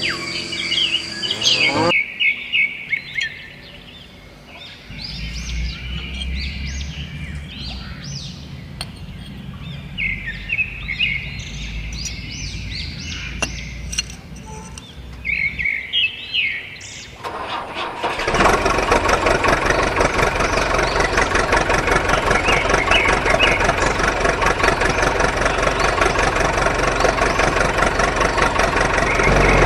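Birds chirping, then a motor starts about two-thirds of the way in and runs steadily and loudly.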